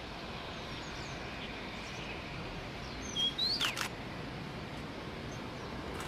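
A bird giving a brief cluster of short, sharp calls with quick pitch glides a little past halfway, over steady outdoor background noise.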